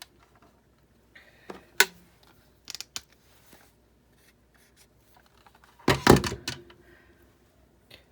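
Parts of a Big Shot die-cutting machine being handled during disassembly: a sharp click a little under two seconds in, a few light ticks, and a louder clatter of knocks about six seconds in as pieces are moved and set down.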